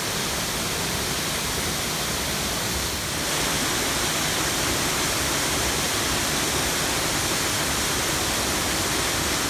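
Waterfall in full flow: a loud, steady rush of falling water, a little louder from about three seconds in.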